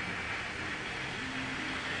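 Steady rushing hiss of background noise with a faint low hum underneath.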